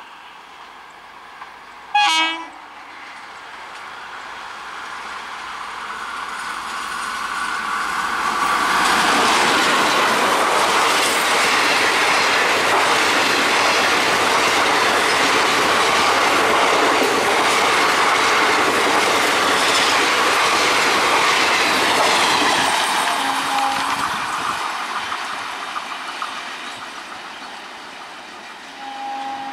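A short, loud horn blast about two seconds in, then a train hauled by a WAP-4 electric locomotive passes close: its coach wheels rumble and clack over the rail joints, building to a loud, steady rush for over ten seconds, then fading. Near the end a horn sounds briefly, then again just before the end.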